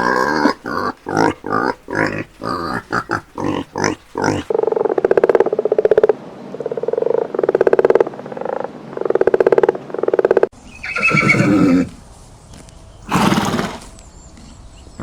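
A run of animal calls: a rapid series of short calls, then a string of evenly pulsed, buzzy calls. Near the end a horse whinnies twice.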